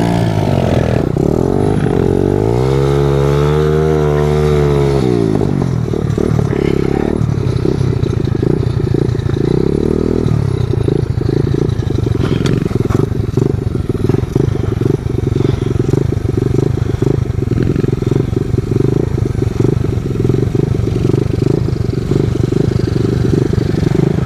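Small pit bike engine riding on the road, revving up and back down a few seconds in, then running steadily with a choppy, rough edge for the rest.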